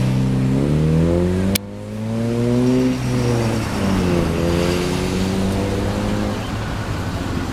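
Vehicle engine accelerating, its pitch rising, then rising again after a sharp click about a second and a half in, and settling to a steadier run.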